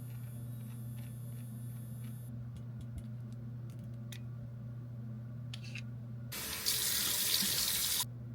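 A tap turned on and running into a sink for under two seconds near the end, starting and stopping abruptly. A few light clicks come before it, over a steady low hum.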